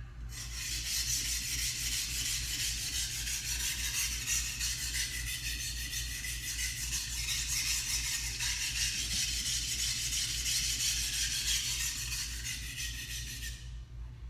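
Carbon-steel (white #2) gyuto blade being stroked back and forth on a Suehiro Debado waterstone: a continuous scraping rasp of steel on stone. It stops about a second before the end.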